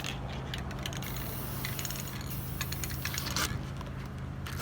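Aerosol spray paint can spraying in short bursts, with light clicking and rattling from handling the can, over a steady low hum.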